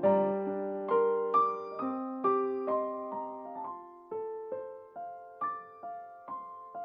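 Slow, gentle solo piano music: single notes and chords struck about twice a second, each ringing and dying away.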